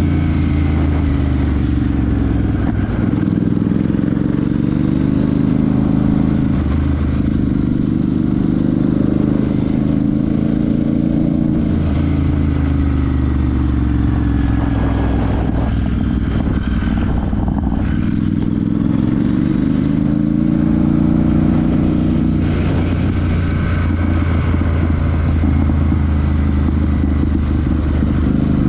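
Royal Enfield Super Meteor 650's parallel-twin engine and exhaust under way, the engine note rising and dropping back several times as the bike accelerates and changes speed.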